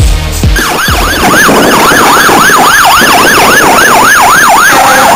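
Electronic siren in a fast yelp, its pitch sweeping up and down about three times a second, switching to a different pattern near the end. A drum beat cuts off as the siren starts.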